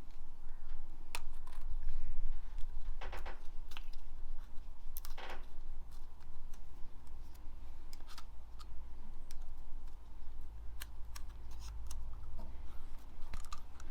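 Scattered light clicks and taps of small engine parts and tools being handled, over a steady low hum.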